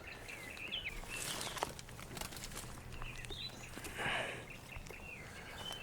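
Footsteps and rustling of brush, with soft swells about a second in and about four seconds in, while birds chirp faintly in the background.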